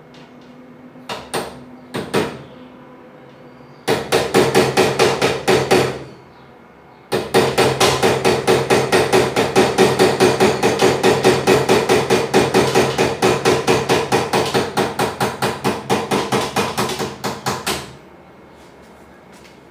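Rapid, evenly spaced hammer blows, about five a second, with a ringing metallic tone. A few separate knocks come first, then a short run of blows and a longer run of about ten seconds, which stops abruptly.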